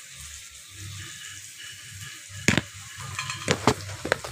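Onions, potatoes and spices sizzling in oil in an iron kadhai, with a metal spoon stirring and knocking against the wok four times in the second half as salt is mixed in.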